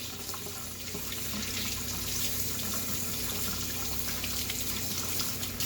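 Hot water running from a tap into a sink as plastic air filter housing parts are rinsed under it, a steady even rush with small clicks of the parts being handled.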